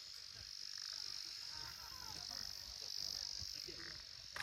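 Faint, steady, high-pitched outdoor animal chorus, with a few faint short chirps and a low rumble beneath.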